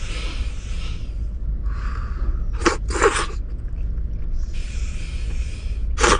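Someone slurping udon noodles: long hissing draws in, with two short sharp slurps about three seconds in, over a steady low rumble.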